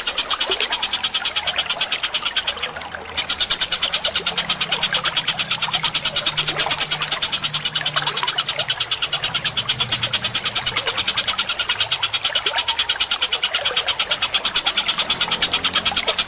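Rapid, evenly repeated high chirping of songbirds, as in a bird-training (masteran) recording of fighting sparrows and kingfisher calls, over a background of running water. The chirping breaks off briefly about three seconds in.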